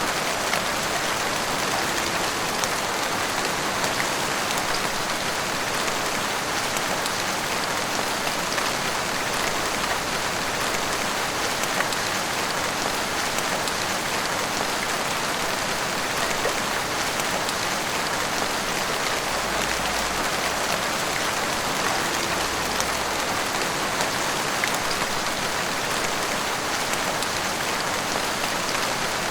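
Heavy rain falling steadily, an even downpour with scattered sharper drop hits.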